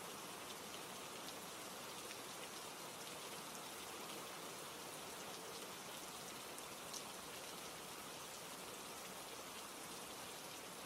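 Steady rain, an even hiss with scattered light ticks and one sharper tick about seven seconds in.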